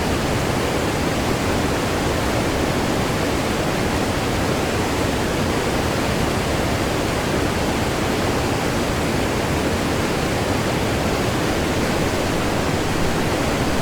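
Waterfall on a river heard close up: a steady, loud rush of falling water with no change in level.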